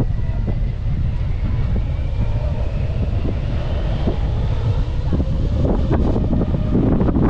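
Wind buffeting the microphone, with the faint whine of a jet airliner's engines gliding slowly in pitch. The noise grows denser near the end.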